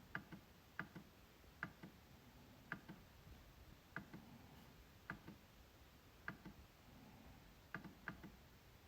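A MacBook trackpad being clicked, about once a second at an uneven pace. Sharp, light clicks, several followed a moment later by a softer release click.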